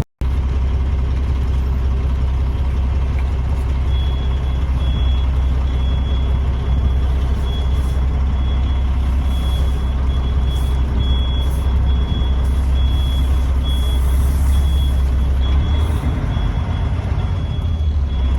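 Semi truck running down the road, heard from inside the cab as a steady heavy low drone. About four seconds in, a high electronic beep starts repeating over and over.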